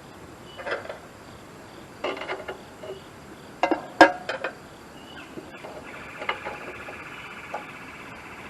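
Metal clanks and knocks of tools and parts being handled, with one sharp, loudest clank about four seconds in. Near the end a fast, steady metallic rattle takes over.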